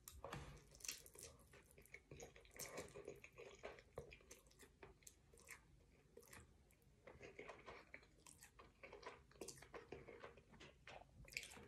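Faint chewing and mouth sounds of a person eating, in short irregular bursts of small wet clicks, with a brief pause a little past the middle.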